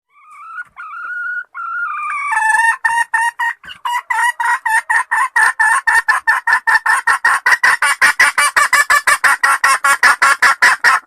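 Female jungle fowl (hen) calling: a drawn-out wavering note for about two seconds, then a fast run of short, evenly repeated clucking notes, about five a second, growing louder until it cuts off suddenly. It is the hen's call to a male.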